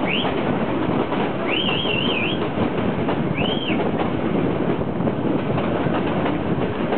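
Nilgiri Mountain Railway train running through a rock cutting, a steady rumble and clatter of carriages and wheels on the track heard from an open carriage window. A few brief wavering high-pitched tones come through, the longest about a second and a half in.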